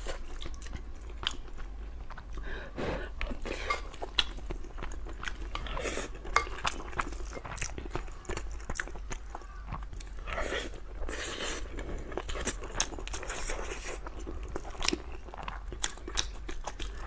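A person chewing and eating braised pork over rice close to the microphone, with many short wet mouth clicks throughout.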